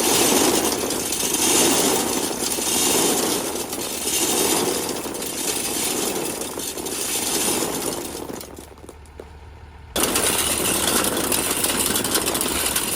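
Combine harvester machinery running loud at close range, a rough mechanical rush with rattling. It fades and drops out about eight and a half seconds in, then comes back abruptly about a second and a half later.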